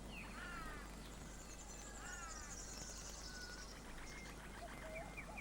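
Faint natural ambience of birds calling: a few short calls that dip in pitch, a high trill through the middle, and short wavering whistles near the end.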